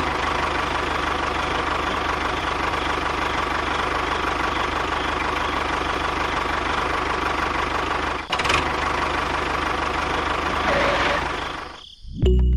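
Small petrol engine of a homemade mini tractor running steadily, with a sharp click about eight seconds in and a brief rise near the end before it cuts off.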